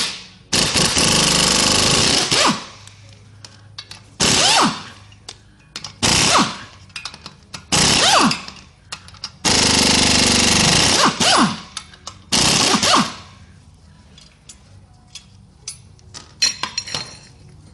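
Impact wrench running in about seven short bursts to take out bolts on the clutch assembly of a VW engine. The pitch falls as each burst ends and the tool winds down.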